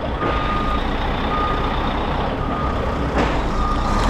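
Backup alarm of heavy equipment beeping steadily, one long beep about every second, over the low rumble of a heavy diesel engine running. A brief rush of noise cuts in about three seconds in.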